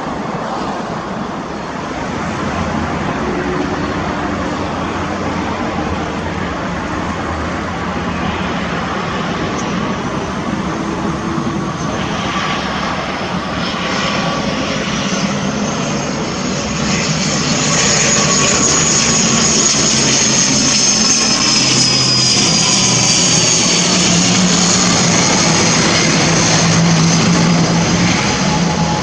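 UNI Air ATR 72-600 turboprop airliner passing close by: its engines and propellers grow louder through the first half and are loudest in the second half, with a high whine that falls slightly in pitch as it goes by.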